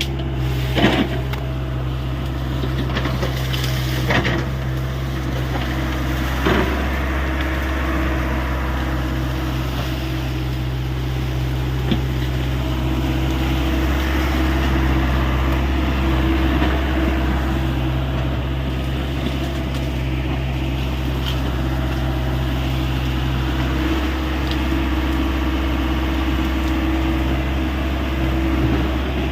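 Hyundai 85 excavator's diesel engine running steadily, with a few short sharp knocks in the first seven seconds and another about twelve seconds in.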